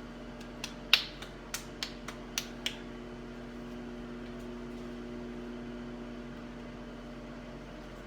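Microwave oven running with a steady hum while it heats a bag of popcorn on its sensor popcorn setting. About half a second in comes a quick run of about eight sharp clicks, roughly three a second, the second one the loudest, before only the hum remains.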